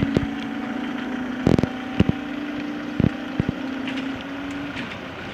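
Level crossing warning alarm sounding as a steady, rapidly pulsing low tone that cuts off near the end, with several sharp knocks over wind noise.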